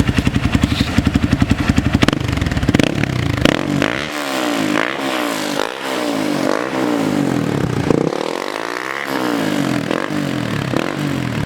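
Hero Xpulse 200 4V's single-cylinder engine through a Motowings aftermarket full-system exhaust, idling with an even, pulsing beat, then revved in a run of quick throttle blips from about four seconds in.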